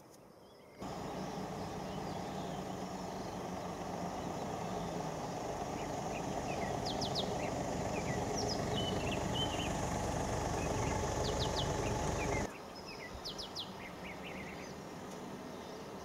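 Birds chirping in short high notes, a few at a time, over a steady loud low rumble. The rumble starts about a second in and cuts off suddenly about twelve seconds in, after which the chirps go on over quieter background.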